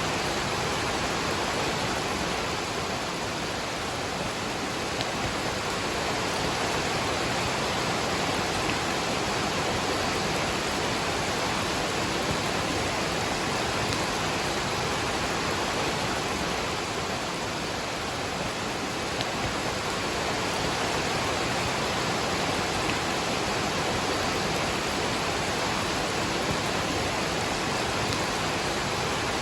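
Steady rushing of a waterfall with rain falling, an unbroken wash of water noise.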